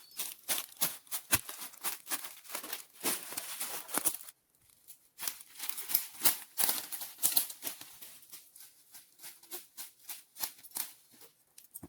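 Irregular rustling and crackling: a dense run of short crackles and snaps, with a brief pause about four seconds in.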